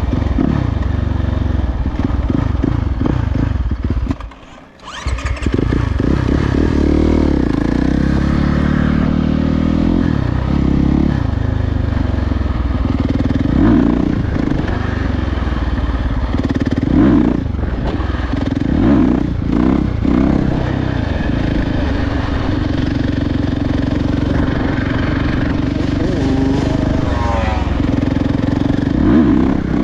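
Dirt bike engine running and revving, its pitch rising and falling over and over as it speeds up and eases off. The sound breaks off briefly about four seconds in.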